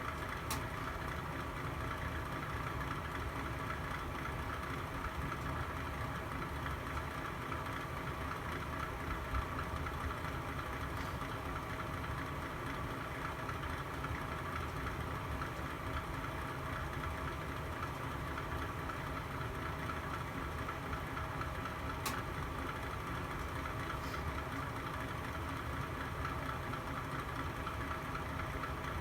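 Fireplace fire burning with a steady low rumble and a few sharp pops, the clearest about 22 seconds in.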